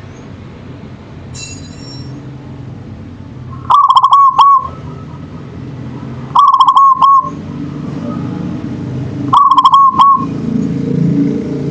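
Zebra dove (local perkutut) singing its cooing song: three phrases of quick, clipped coos, about three seconds apart. A low steady rumble runs underneath and grows louder near the end.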